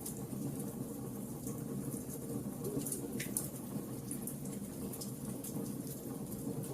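Bonfire crackling: a steady low rush of burning with frequent sharp, scattered pops and snaps of burning wood.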